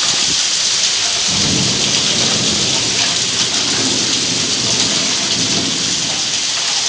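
Heavy rain pouring steadily, with a low rumble of thunder rolling in about a second in and fading near the end.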